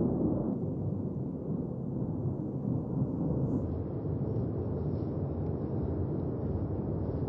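Steady low rumble of the Cumbre Vieja volcano erupting, a continuous noisy roar without distinct blasts.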